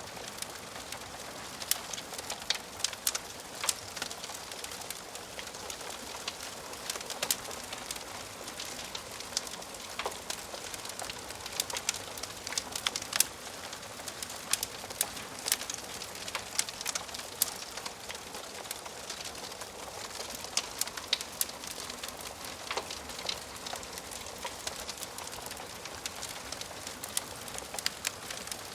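Wood fire burning in a fireplace, crackling: a steady soft hiss with frequent sharp, irregular pops and snaps of the burning wood.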